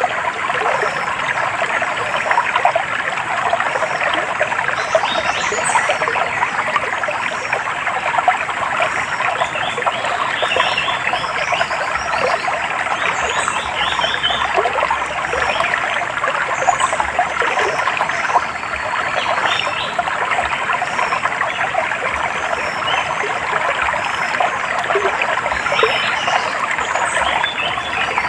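Stream water trickling and splashing steadily, with many short, high bird chirps scattered throughout.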